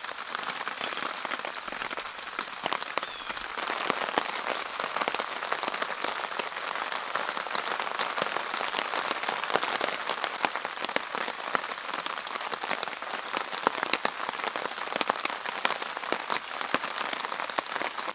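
Steady rain, with many separate drops ticking sharply on a tarp shelter overhead; it gets a little heavier about four seconds in.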